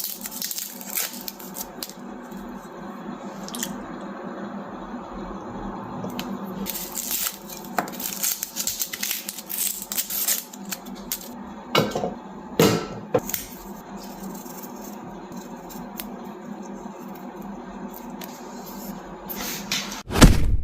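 Kitchen prep sounds: dishes and utensils clinking and knocking, with wet, squishy handling of food, over a steady low background hum. A louder knock comes near the end.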